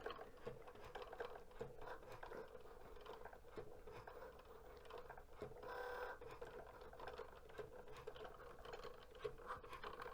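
Cricut Joy cutting machine working through a cut of an Infusible Ink sheet: a faint steady motor hum with small ticks and clicks as the carriage and blade move, and a brief louder whir about six seconds in.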